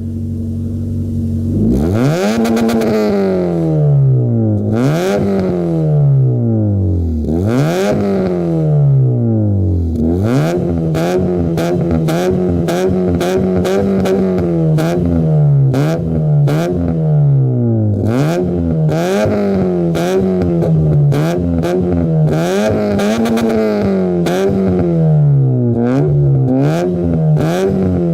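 Opel C20XE 2.0 16V inline four-cylinder, breathing through a Lexmaul exhaust manifold and two straight-through mufflers, idles for a moment and is then revved over and over: quick blips rising and falling, then revs held high and dropped back again and again, with sharp crackles through the later revs.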